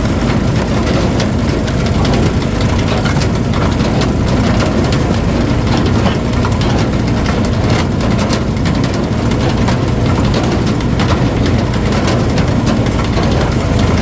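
Engine of a wood splitter running steadily at a constant speed, with a continuous low rumble and faint clicking throughout.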